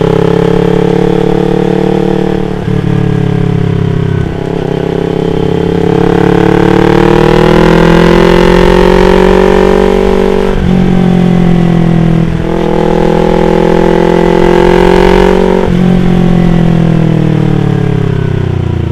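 Yamaha R25's 250 cc parallel-twin engine running under way, its pitch jumping abruptly about five times as the rider changes gear. Partway through it climbs slowly and steadily under acceleration.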